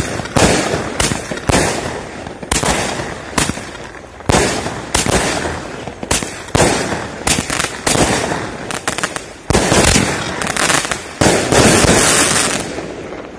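A 16-shot consumer firework cake firing: launch thumps and aerial star bursts go off in quick succession, about one or two sharp bangs a second. Near the end, crackling bursts give a denser fizzing.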